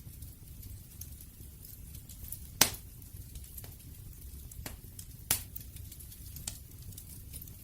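Wood bonfire crackling: scattered sharp pops and snaps over a low steady rumble, with two loud pops, one about two and a half seconds in and one about five seconds in.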